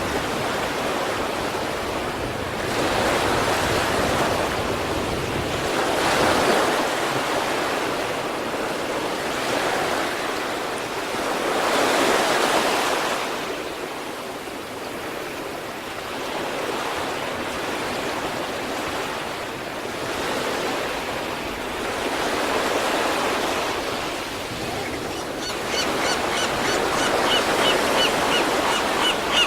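Sea waves breaking and washing on the shore, a steady rush that swells and ebbs every few seconds. A rapid, high-pitched chirping comes in near the end.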